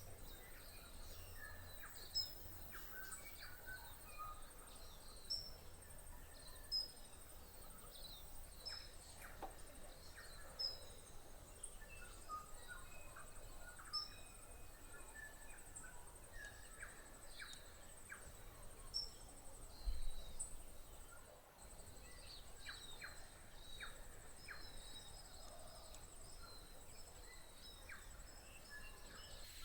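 Male tūī singing faintly, a varied string of short whistles, chirps and clicks, over a thin, steady, high tone.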